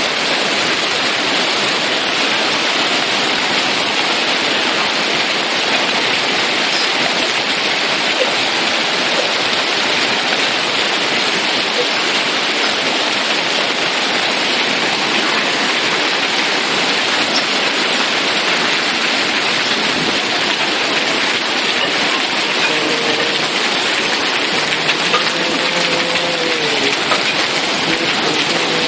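Heavy rain pouring down, a steady loud hiss that never lets up. A faint pitched sound comes in under it over the last few seconds.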